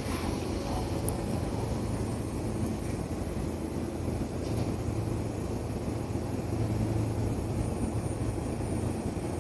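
Steady low hum of a Sotetsu electric commuter train standing idle at the platform, swelling slightly near the middle.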